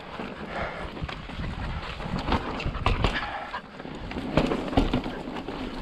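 Mountain bike riding over bare slickrock: steady tyre and rolling noise with many irregular knocks and rattles from the bike as it goes over the rock.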